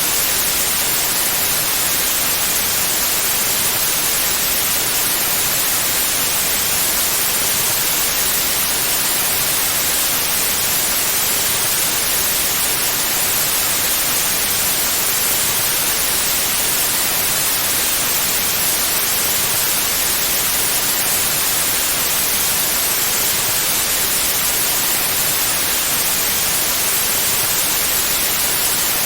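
Steady, unvarying white noise: an even hiss across all pitches, brightest at the top, with no changes or events.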